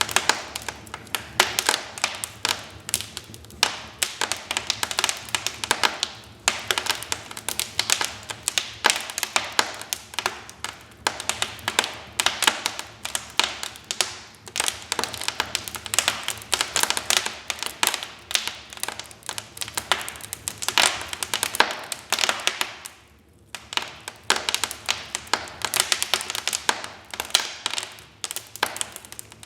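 Wood fire in a fireplace crackling, with dense irregular pops and snaps from the burning logs and a brief lull about two thirds of the way through.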